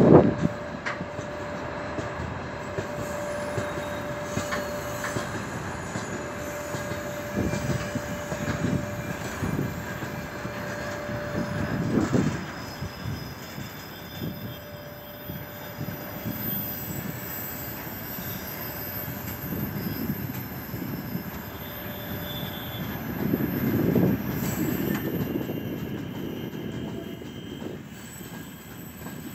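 Freight train of open gondola wagons rolling past at steady speed: a continuous wheel-and-rail rumble that swells louder every few seconds as the wagons go by. A thin steady wheel squeal runs through it and stops about halfway.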